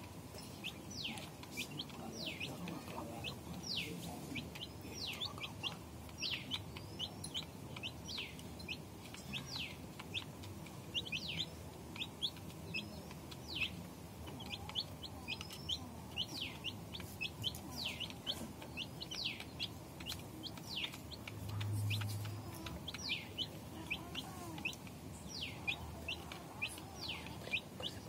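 Small birds chirping non-stop: short, high, falling peeps, several a second. Beneath them, faint low clucking from the hen on the nest, and a brief low hum about three-quarters of the way through.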